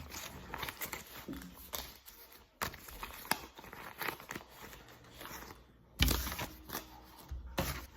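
Paper banknotes rustling and crinkling as cash is counted by hand, with scattered small clicks and a louder thump about six seconds in.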